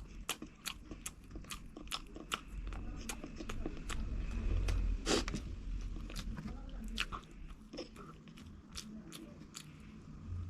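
A person chewing crunchy fried food, with rapid, irregular crisp crunches several times a second and a louder bite about five seconds in.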